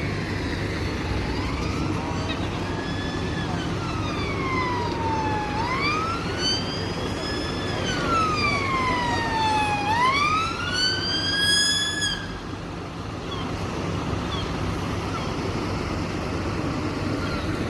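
Emergency vehicle siren in a slow wail, its pitch sweeping down and back up about every four seconds. It grows louder and cuts off suddenly about twelve seconds in, over a steady rushing background noise.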